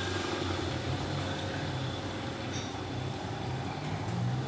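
Freight train running through the station: a steady low rumble with a wavering engine drone.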